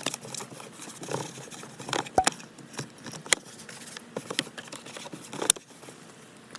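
Rustling and handling noises, with a few sharp clicks and taps, the loudest about two, three and five and a half seconds in, as objects are moved about inside a car.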